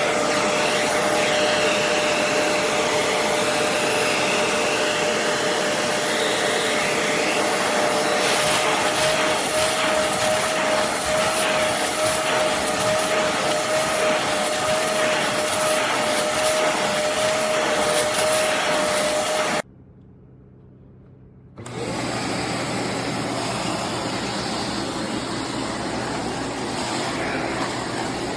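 Bissell Zing bagless canister vacuum running, its motor a loud steady rush with a constant high whine. It cuts off abruptly about two-thirds of the way in, and after a short lull a different, lower and rougher steady running noise starts up.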